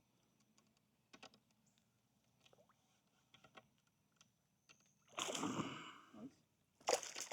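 Faint scattered clicks, then two short bursts of splashing water about five and seven seconds in, as a freshly hooked bass thrashes at the surface.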